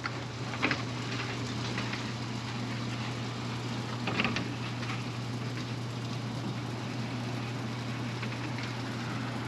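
Steady rain falling, with a constant low hum underneath and a couple of faint knocks.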